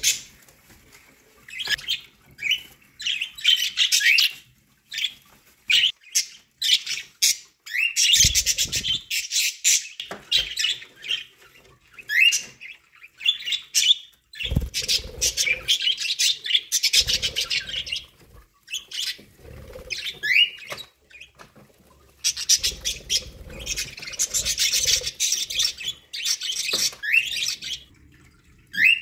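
Budgerigars chirping and warbling in rapid bursts, with many short rising chirp calls between spells of chatter.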